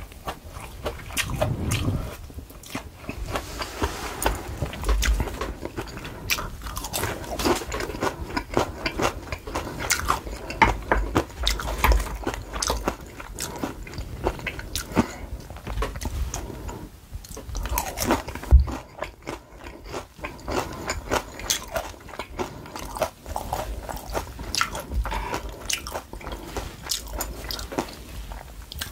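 Close-miked crunching and chewing of battered fried peppers (gochu-twigim): dense crisp crackles of the fried batter breaking between the teeth, with one especially loud crunch about two-thirds of the way through.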